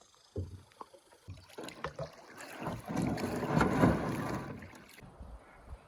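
Canoe on the water: a few hollow knocks against the hull, then a rushing swell of noise that builds to a peak about four seconds in and cuts off abruptly about a second later.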